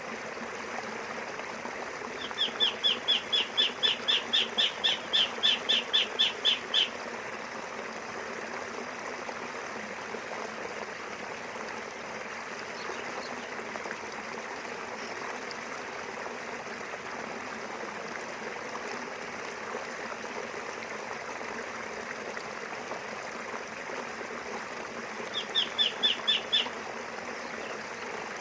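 River water flowing steadily. Over it, a bird calls a fast run of short, high, down-slurred notes, about four a second: a long run of some four seconds a couple of seconds in, and a shorter run of about five notes near the end.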